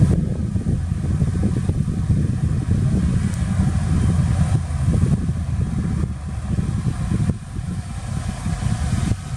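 Heavy diesel earthmoving machinery running, a steady low, rough engine rumble.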